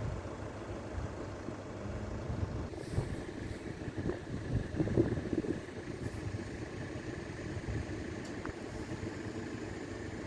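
Road vehicles running at a railway level crossing, a steady low rumble, with a thin steady high tone that starts about three seconds in and carries on.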